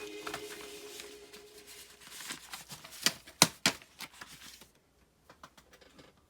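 Background music fades out over the first second or so. A short run of sharp clicks and taps follows, the loudest about three and a half seconds in, then a few faint ticks.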